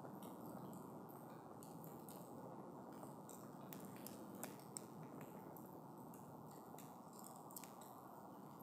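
Wood campfire crackling faintly: frequent small snaps and pops over a soft steady hiss, with two sharper pops about four and a half seconds in.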